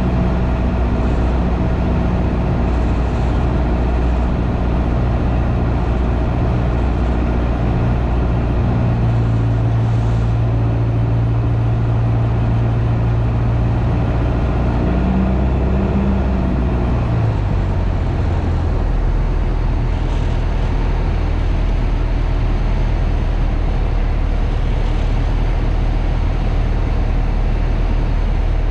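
Piper PA-28's piston engine and propeller droning steadily in the cockpit. About 17 seconds in, the engine note drops lower as the power is reduced, then holds steady.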